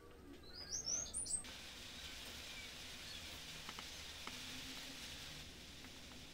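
A small bird chirping: a quick run of high notes, each higher than the last, in the first second and a half. After it comes a steady hiss, with a few light clicks of small wooden pieces being handled.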